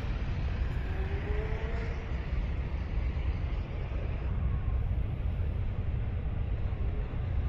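Steady low rumble of a vehicle in motion, with a faint brief gliding tone about a second in.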